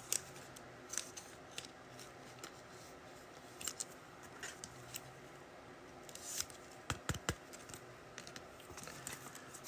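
Faint, scattered clicks and light scrapes of trading cards and packs being handled and flipped through, with a couple of louder snaps about seven seconds in.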